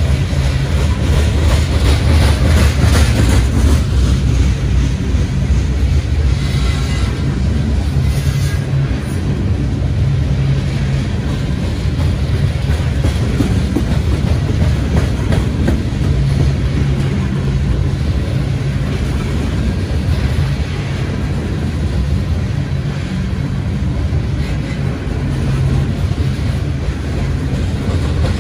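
Steel hopper cars of a freight train rolling past close by: a loud, steady rumble of wheels on rail with clickety-clack.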